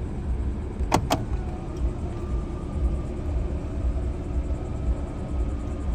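Two sharp clicks, then the electric motor of a car's power seat running with a thin steady whine as the seat moves.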